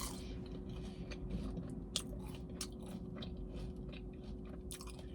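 A person chewing French fries close to the microphone: irregular small mouth clicks and crunches with no talking.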